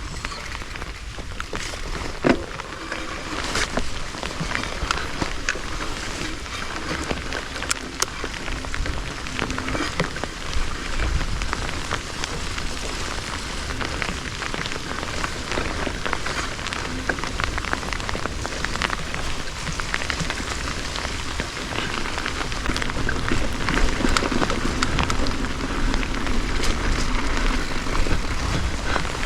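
Mountain bike tyres rolling over a wet dirt and gravel trail: a dense, steady crackling patter with a low rumble of wind on the camera mic, growing a little louder toward the end.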